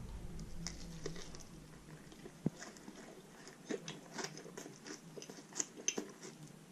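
Close-up eating sounds: biting into and chewing a loaded taco, with faint scattered crunches and mouth clicks, and one sharp knock about two and a half seconds in.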